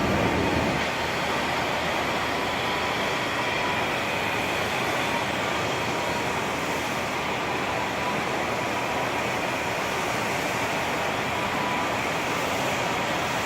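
Ride-on floor cleaning machine running steadily: an even mechanical hiss with a faint steady whine.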